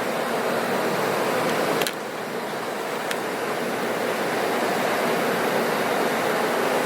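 Steady rushing noise, with a faint click and a slight drop in level about two seconds in.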